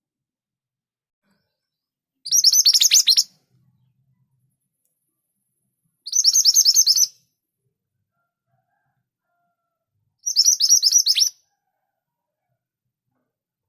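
Scarlet minivet (mantenan) singing: three high, rapid bursts of about eight sharp notes each, each burst about a second long and spaced some four seconds apart.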